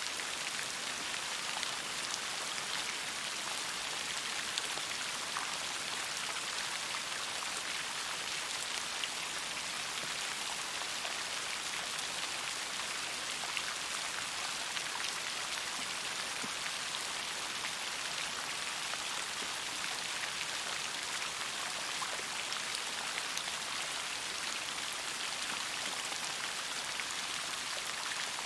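Steady rain falling, a dense even hiss of drops with scattered small patters of individual drops.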